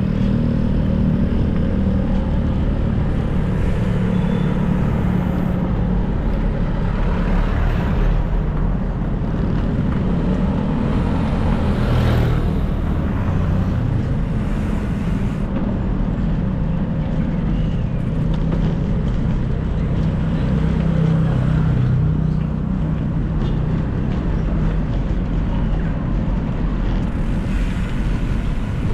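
Road traffic noise from passing cars and other motor vehicles, a steady low rumble throughout, with one brief sharp sound about twelve seconds in.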